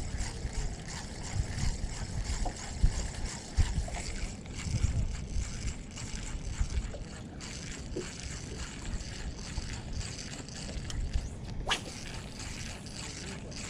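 Wind gusting on the microphone over water sloshing and gurgling. A single sharp click comes near the end.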